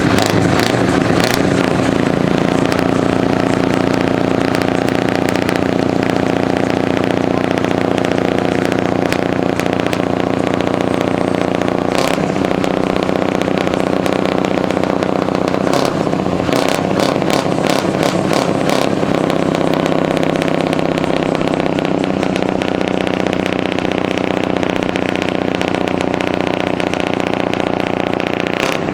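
Large truck engine running steadily, its pitch shifting slightly a couple of times, with scattered short clicks over it.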